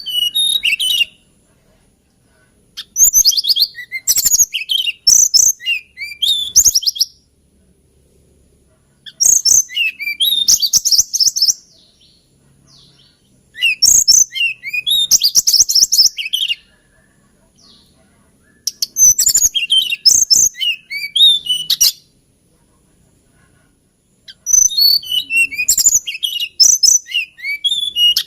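Hill blue flycatcher singing: high, warbling song phrases of two to four seconds each, repeated about every five seconds with short pauses between.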